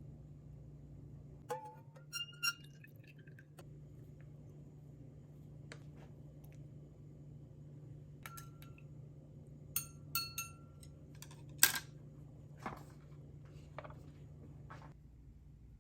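Glass or ceramic tableware clinking: sharp knocks that ring briefly. They come in a few clusters, with the loudest clink about three quarters of the way through, over a steady low hum.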